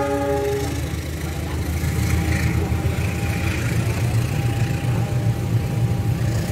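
Passenger train coaches rolling past, with a steady low rumble of wheels on rail. A short pitched note sounds at the very start and stops within a second.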